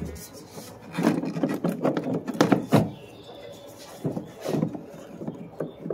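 Plastic air filter box of a 2014 GMC Sierra being wiggled and pushed into its housing: irregular knocks and clicks of hard plastic with scraping in between, busiest in the first few seconds.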